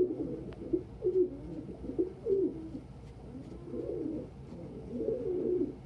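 Domestic pigeons cooing over and over, low rolling coos following one another without a break.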